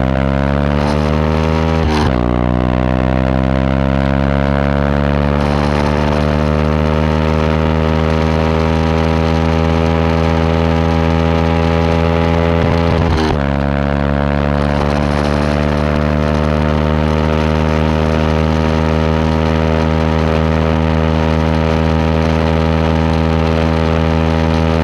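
Yamaha WR125X's 125 cc single-cylinder four-stroke engine idling through a Takkoni aftermarket exhaust, a steady even note. About two seconds in and again about halfway it breaks off briefly, and the pitch then slowly climbs back to a steady idle.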